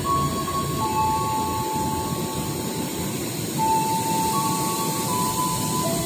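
Train noise at a station: a low steady rumble under several high, steady squealing tones that overlap and step between pitches every second or two, strongest about three and a half seconds in.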